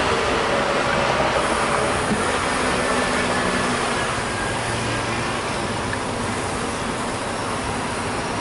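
State Railway of Thailand passenger train running along the track, heard from an open carriage window: a steady rushing and rumbling of the train in motion.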